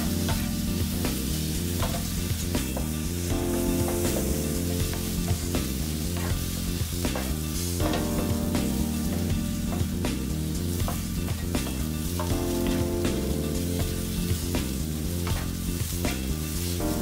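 Prawns, asparagus and chili sizzling in a hot non-stick frying pan as they are stir-fried, with frequent short scrapes of the spatula against the pan. Background music runs underneath.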